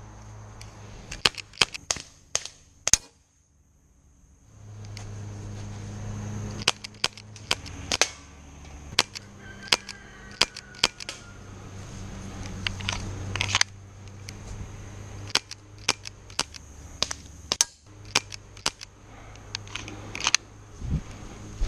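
Airsoft gun firing single shots: sharp pops at irregular intervals, a few each second in short runs, over a steady high whine and low hum. The sound drops out almost completely for about a second and a half near the start.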